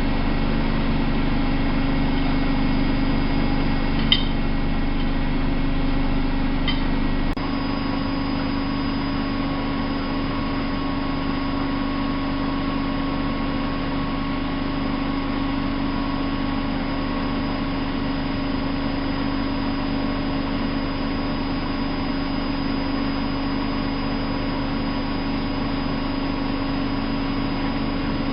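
Miele Novo Super W933 washing machine running with a steady mechanical hum. There is a click about four seconds in, and about seven seconds in the low rumble drops away, leaving a lighter, steady hum.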